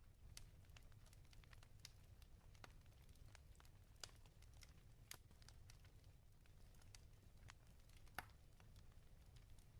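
Wood fire crackling in a fireplace: faint, irregular pops and snaps over a low steady rumble, with the sharpest pop about eight seconds in.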